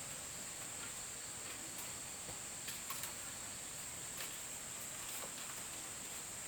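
A steady high-pitched drone of insects. A few faint clicks and taps fall around three and four seconds in.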